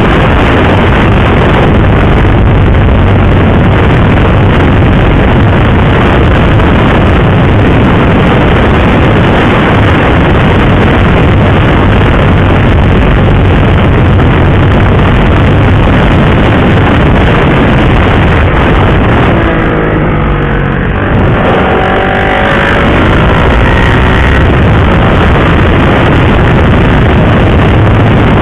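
KTM RC390 motorcycle riding at speed, with heavy wind rush on the helmet microphone. About two-thirds of the way in, the engine note drops briefly, then climbs again as the bike gets back on the throttle.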